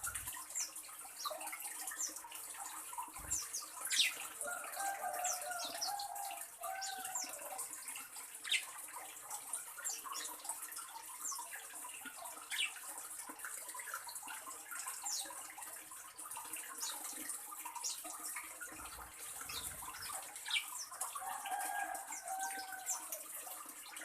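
Small birds chirping in short, sharp calls scattered throughout, with two brief lower warbling phrases, one about five seconds in and one near the end, over a steady high hiss.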